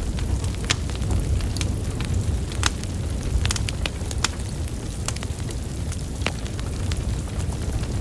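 Wood fire burning: a steady low rumble of flames with sharp, irregular crackles and pops from the burning logs, a quick cluster of them about halfway through.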